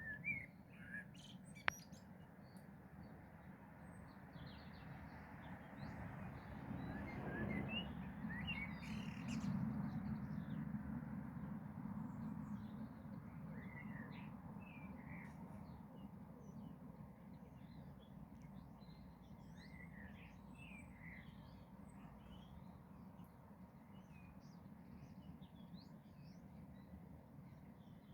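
Small birds chirping, short high calls scattered throughout. A low rumble swells and fades around the middle, and a single sharp click comes about two seconds in.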